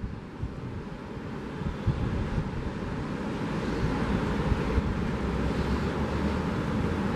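Ocean surf washing onto the beach, swelling from about a second in, with wind buffeting the microphone.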